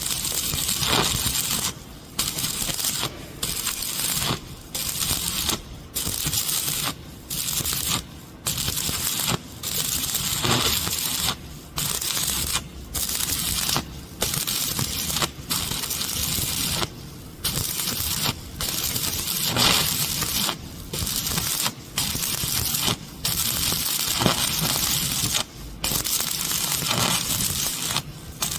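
Stick (arc) welding on steel pipe: the electrode arc crackles and sizzles in bursts of about a second, cut by short breaks where the arc goes out and is struck again, over and over.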